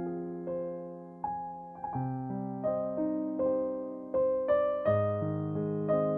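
Background music: slow, gentle piano (or electric piano) playing sustained chords and a simple melody, notes struck and left to ring.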